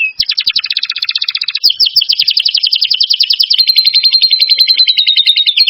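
Songbird song on a bird-song tutor recording: a loud, very fast, unbroken trill of high notes, changing to a steadier, more even trill about two-thirds of the way through.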